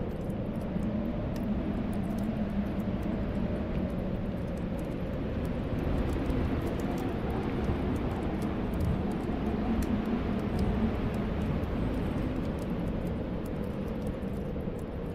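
Snowstorm wind blowing steadily, a deep rush that swells a little midway through. Faint, scattered crackles of a fireplace fire sound over it.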